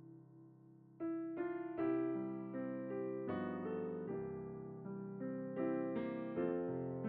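Background piano music: a slow run of single notes and chords, starting again about a second in after a fading note.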